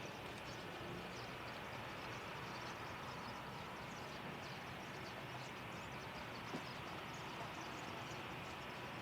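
Steady outdoor background noise with faint high chirps through it and a single small click about six and a half seconds in; no aircraft passes close by.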